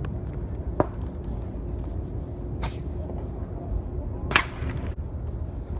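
Consumer fireworks going off: a sharp snap about a second in, then two short hissing bursts a little under two seconds apart.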